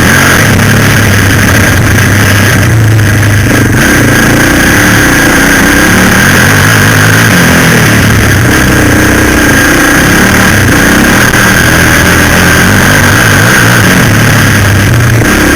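Suzuki LTZ 400 quad bike's single-cylinder four-stroke engine running hard close to the microphone, its pitch rising and falling with the throttle. Loud throughout, with a steady high whine over the engine note.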